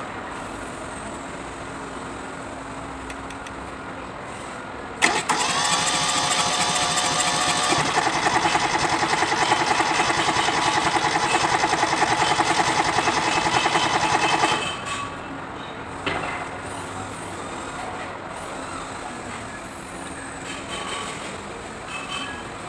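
Tractor diesel engine cranking on its starter. It starts with a click about five seconds in, turns over with a fast even pulsing for about ten seconds, then cuts off suddenly without settling into an idle, typical of a hard-starting engine.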